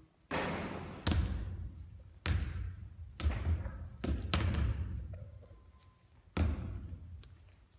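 A basketball bouncing and hitting hard surfaces in an echoing gym: about seven sharp thuds at uneven intervals, each followed by a long fading echo.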